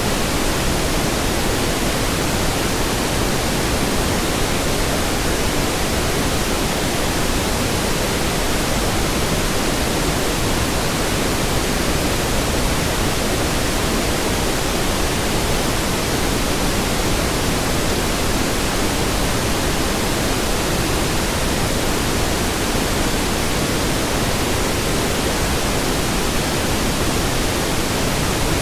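Steady synthetic pink noise: an even hiss across the whole range, no tones or events, level unchanging.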